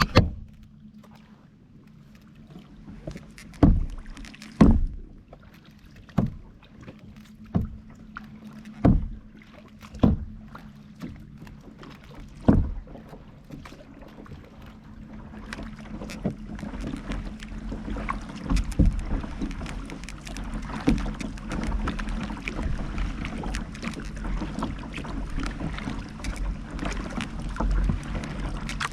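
Kayak paddling: sharp paddle strokes and splashes come one at a time, every second or so, then after about fifteen seconds give way to a steadier rush of water with many quicker splashes.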